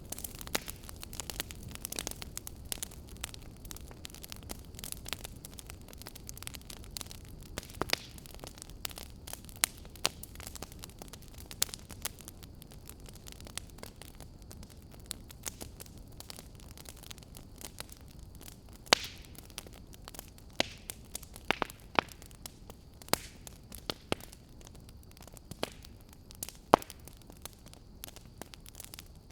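Wood fire crackling in a fireplace: irregular sharp pops and snaps over a low steady hiss and rumble, with a few louder pops about two-thirds of the way through and near the end.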